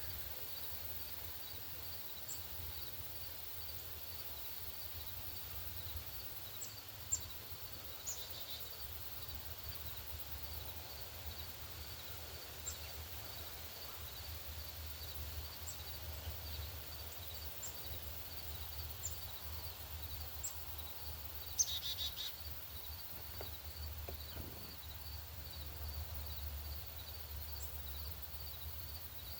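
Songbirds giving short, high chip notes, about a dozen scattered singly through, over a steady, evenly repeating high pulsing and a low rumble. There are two sharp taps, one about seven seconds in and a louder one a little past the middle, each followed by a brief flurry of high sound.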